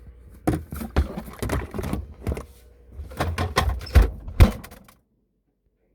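Bottles and containers clunking and knocking against refrigerator shelves as items are moved around, ending in a loud thump of the fridge door shutting about four and a half seconds in, after which the sound cuts off to near silence.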